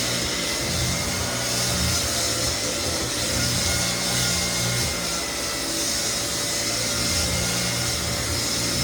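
Lägler Flip floor sander running steadily, its abrasive grinding across white oak flooring to level cupped boards.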